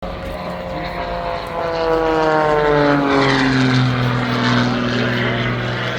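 Propeller-driven MXS-RH aerobatic monoplane flying past, its engine drone sliding down in pitch as it goes by. It is loudest around the middle.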